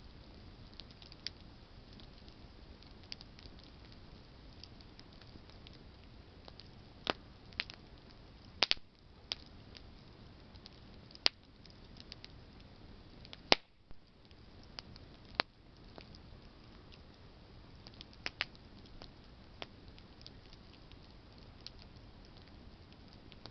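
Campfire of burning branches crackling: scattered sharp pops and snaps over a faint steady hiss, the loudest two about nine and thirteen and a half seconds in.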